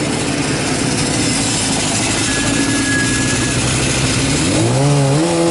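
Yamaha FZ600 race bike's engine at speed under loud wind rush, its pitch held fairly steady, then near the end rising and dropping sharply as it changes gear.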